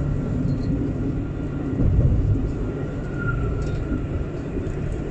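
Alstom Citadis 402 tram running between stops, heard from inside: a steady low rumble of wheels on rail and running gear. A faint high whine swells briefly about three seconds in.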